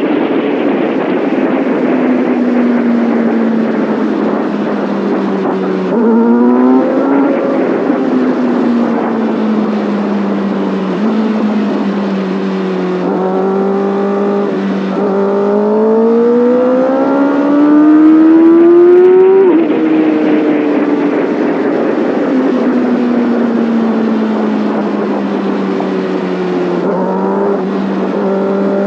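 Kawasaki Ninja ZX6R's inline-four engine and exhaust under way. Revs fall away, blip up sharply about six seconds in, then climb in steps to the loudest point a little past halfway, fall away again, and rise once more near the end.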